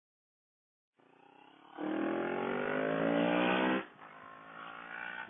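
CFMoto CL-X 700's 693 cc parallel-twin engine accelerating hard, its pitch rising for about two seconds before the throttle comes off and it drops back to a lower running note. The sound is absent for the first second, then comes in quietly.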